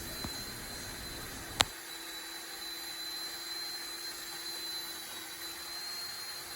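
Poulan ES300 electric chainsaw motor running with a steady whine, with the chain cutting a small log. There is a sharp crack about a second and a half in; after it the low rumble stops and the saw runs freely.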